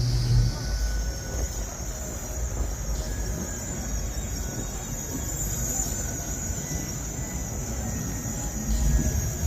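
Wind rumbling on a phone microphone, with a steady high buzz of insects behind it and a low hum briefly at the start.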